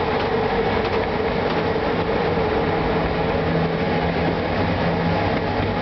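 Train running through a tunnel, heard from inside the locomotive cab: a steady, dense rumble with a constant hum, and a lower tone that comes in for a few seconds in the middle.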